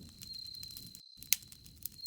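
Campfire crackling, with scattered sharp pops over a low rumble of flames; the loudest pop comes a little past halfway. Crickets chirp steadily behind it, and all sound cuts out for an instant just after a second in.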